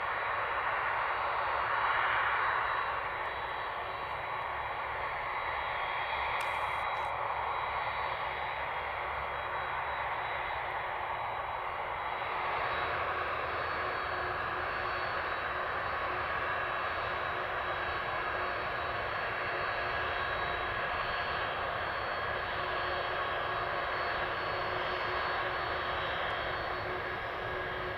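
Boeing 767-400ER's jet engines running at taxi power after landing: a steady whine over a rumble, swelling to its loudest about two seconds in, then holding steady.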